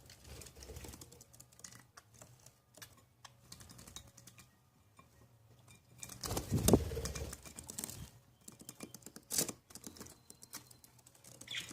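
A budgie bathing in water: scattered small taps and patters of water drops, with a louder burst of splashing a little past halfway and a short sharp splash about three seconds later.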